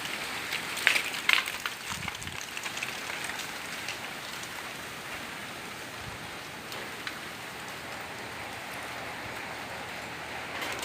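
Rain falling in a steady hiss, with two sharp taps about a second in.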